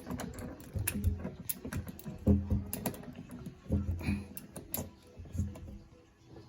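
Irregular clicks and light knocks from a hex driver working the screws of a Whirlpool dishwasher's metal front panel, with a heavier knock a little over two seconds in. The screws are being tightened because they had worked loose and let the panel rattle.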